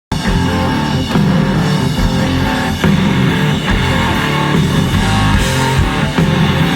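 Rock music with distorted electric guitar and a drum kit beating steadily.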